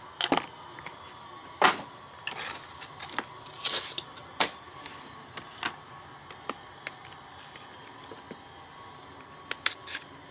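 Trading cards and their packaging being handled: scattered sharp clicks and short rustles at irregular intervals, over a faint steady hum.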